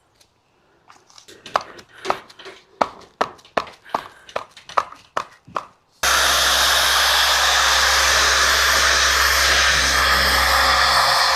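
A run of short scuffing strokes, about two a second, as polish is worked onto a cast-iron table by hand. About six seconds in, an electric orbital sander starts abruptly and runs steadily, buffing the polish.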